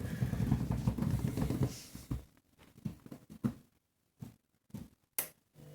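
Candy front-loading washing machine tumbling its load in the main wash: low, uneven swishing for about two seconds, then the drum stops and it goes almost quiet apart from a few soft knocks, the sharpest near the end.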